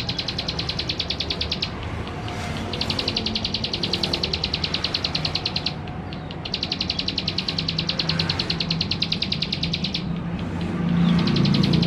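Male ciblek sawah, a small prinia, singing a rapid, dry trill of evenly repeated high notes at well over ten a second. It sings in four long bouts of one to three and a half seconds, broken by short pauses, with a low steady hum underneath.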